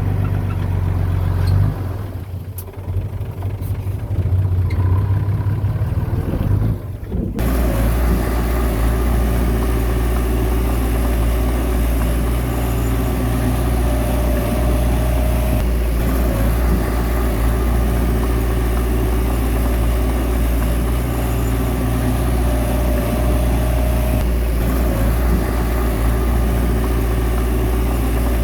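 Heavy diesel engine of a bulldozer running under work. About seven seconds in, the sound changes abruptly to a fuller, noisier steady drone.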